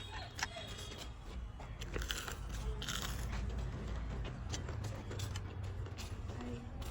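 A person biting and chewing food, with many small clicks and crackles scattered through.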